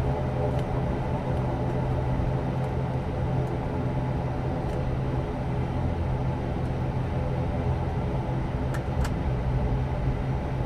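Steady drone of an ATR turboprop airliner's engines and propellers heard from inside the passenger cabin, an even low hum with a few faint clicks near the end.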